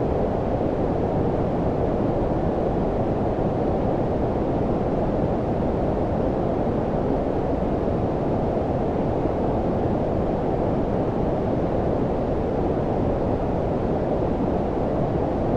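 Steady, deep synthetic noise with its weight in the low end and little treble, like brown noise: an even rumbling hiss that does not change.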